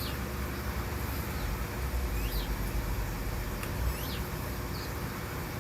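A few short, high chirps from small songbirds at a seed feeder, about four spread over several seconds, over a steady low rumble.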